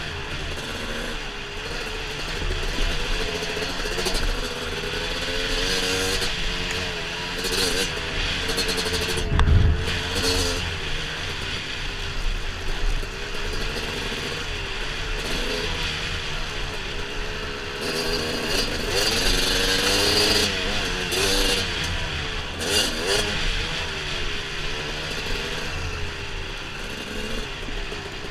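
Dirt bike engine running under riding load, its pitch rising and falling again and again as the throttle is worked. A single low thump comes about nine and a half seconds in.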